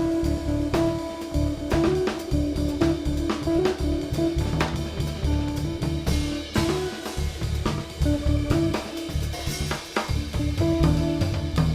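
Live jazz trio of guitar, cello and drum kit playing an instrumental tune, with busy drumming over the guitar and a moving low line.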